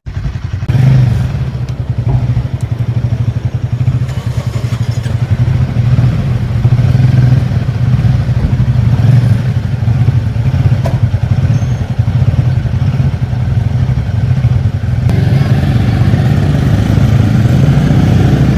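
Royal Enfield Himalayan 450's single-cylinder engine running steadily, heard through its exhaust, with a steady low throb and no clear revving. About fifteen seconds in the sound grows fuller.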